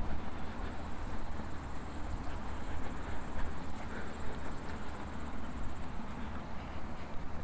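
Outdoor ambience: a low, uneven rumble on the microphone under a high-pitched, rapidly pulsing insect trill that swells in the middle.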